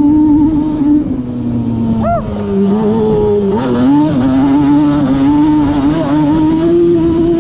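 Yamaha Banshee 350's twin-cylinder two-stroke engine, fitted with a Cheetah 426 big-bore kit, running loud under way. The revs drop about a second in, then climb again about three and a half seconds in.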